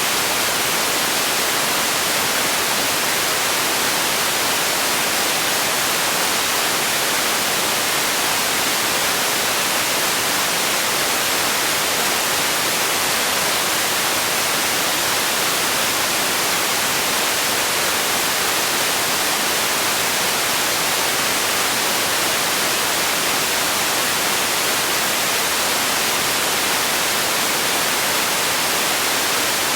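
Steady white noise: an even, unbroken hiss that holds at the same level throughout.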